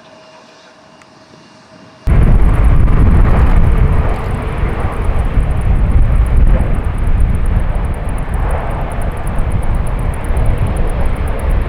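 Jet airliner engines, faint at first, then after a cut about two seconds in a loud, steady jet roar with a heavy low rumble as the aircraft passes close by. The roar swells a little near the end.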